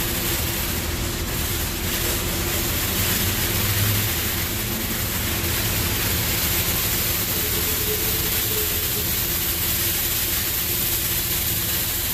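Wash World Razor Edge touch-free car wash machinery running: a steady hissing rush over a low hum.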